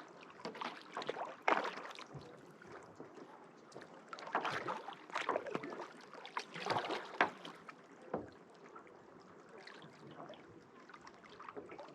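Kayak paddle blades dipping and splashing into lake water, with water dripping and swishing between strokes. The splashes come in uneven bursts of up to a second, several times.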